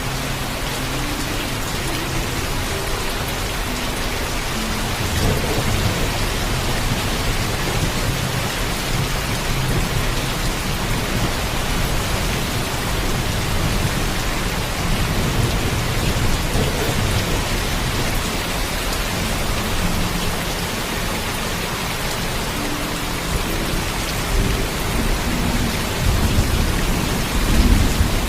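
Heavy, steady rain with low thunder rumbling underneath, swelling about five seconds in and again, loudest, near the end.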